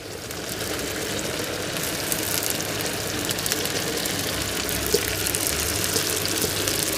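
Potatoes frying in a hot pan with porcini mushrooms and onion, sizzling with a fine crackle. The sizzle builds over about the first second, then holds steady.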